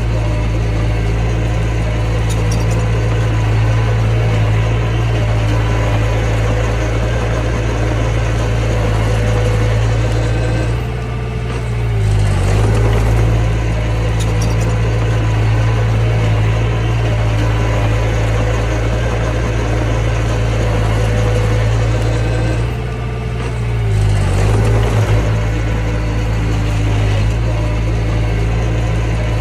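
Mini bulldozer's diesel engine running steadily, its pitch and level dipping briefly twice, about eleven and twenty-three seconds in, before picking back up.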